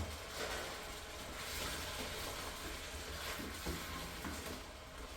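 Butter and sugar mixture sizzling steadily in a hot pan, with a few light knocks.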